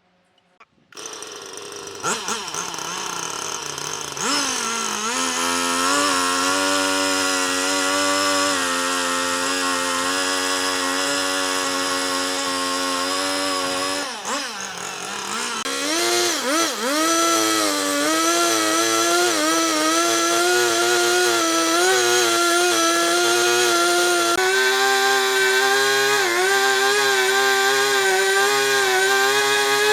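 Chainsaw starting up about a second in and running steadily through wood, its pitch dipping and wavering briefly around the middle.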